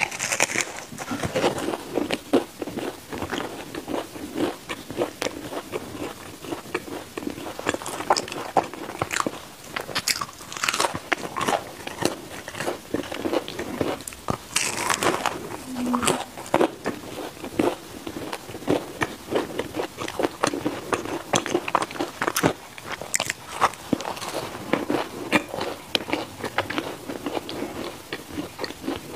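Biting into and chewing freshly baked mochi bread balls: a crisp outer crust giving way to a soft, chewy inside, with a steady run of small irregular crackles and clicks. A new bite comes about 14 seconds in.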